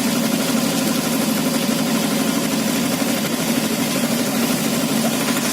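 A vehicle engine idling steadily close by, with a rapid, even chugging.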